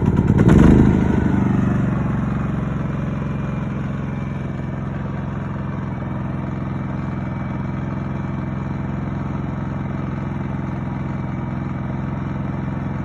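Champion 4650 inverter generator engine just after a one-pull start: a louder surge about half a second in, easing over the next couple of seconds to a steady, even run at no load in eco mode.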